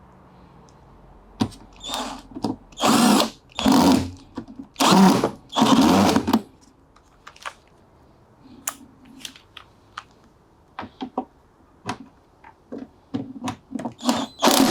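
Power drill-driver running in about five short bursts, driving screws back in, followed by a run of small scattered clicks and knocks.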